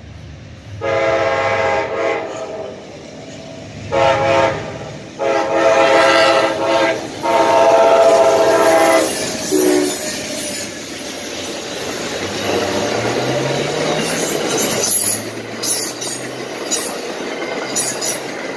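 Amtrak passenger train led by two diesel locomotives sounding its horn in several long chord blasts for the crossing over the first nine seconds or so. Then it passes close by, with the locomotives' diesel engines running and the wheels clicking over the rail joints.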